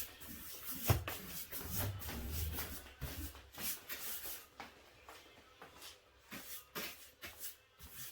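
Irregular short scraping and rustling strokes on cardboard, with a few dull knocks in the first few seconds.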